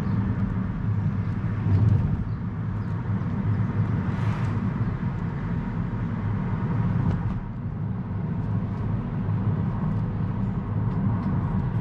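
Car driving on the road, heard from inside: a steady low drone of engine and tyre noise, with a brief rush of hiss about four seconds in.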